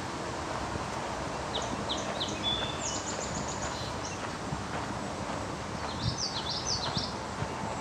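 A small songbird chirping in two quick runs of short, high, falling notes, about a second and a half in and again about six seconds in, over a steady outdoor hiss with soft footsteps.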